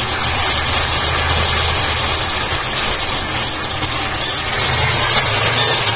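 1931 Packard straight-eight engine running steadily at idle, just brought back to life after decades unused.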